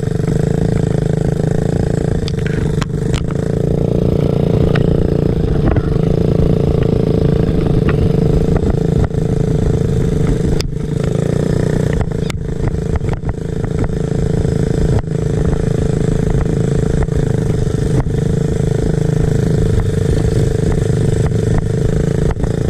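Small off-road motorcycle engine running at a fairly steady pitch, with frequent sharp knocks and clatter.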